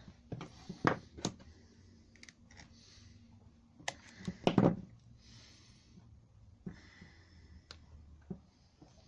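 Scattered clicks and knocks of small hedge trimmer parts being handled and fitted by hand during a carburettor and throttle assembly refit, with a louder cluster of knocks about halfway through.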